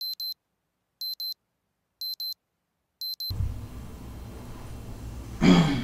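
Electronic alarm beeping in double beeps, one pair a second, four times, cutting off abruptly. Steady background noise then follows, with one loud short thump near the end.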